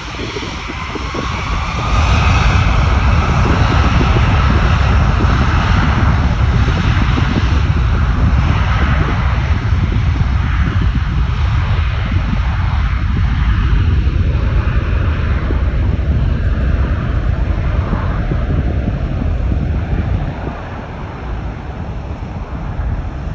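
Airbus A340-600's four Rolls-Royce Trent 500 jet engines at departure power: a loud, deep rumble that swells about two seconds in and eases near the end, with a whine rising in pitch over the first few seconds.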